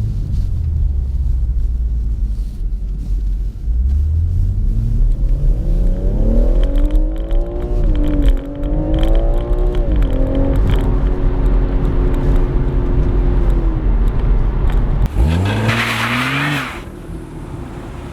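Stock-exhaust BMW M140i's 3.0-litre turbocharged straight-six accelerating, its note rising steadily with a brief dip at an upshift, then holding a steady cruise. Near the end the revs fall and then rise sharply once more with a short burst of hiss, before the sound drops away.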